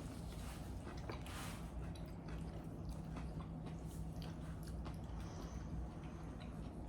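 People eating close to the microphone: soft, wet chewing and squishing with many small irregular clicks, over a steady low hum.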